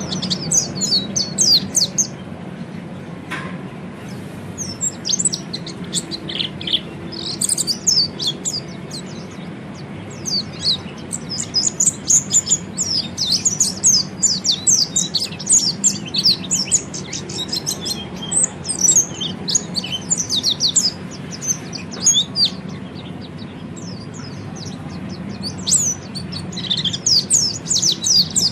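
Orange-headed thrush (peleci) singing a rapid, high-pitched twittering chatter ('ngeriwik'), in bursts with short quieter spells, over a faint steady low hum.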